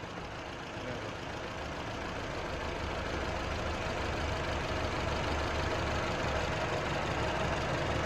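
Car engine idling steadily, growing gradually louder.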